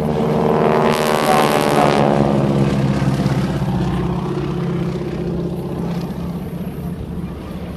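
Propeller-driven piston-engined aircraft flying past. The engine drone is loudest about one to two seconds in, then drops in pitch and fades as the aircraft moves away.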